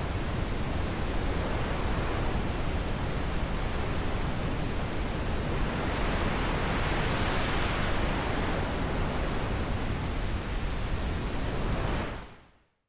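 Steady rushing wind, swelling in a gust about halfway through, then fading out near the end.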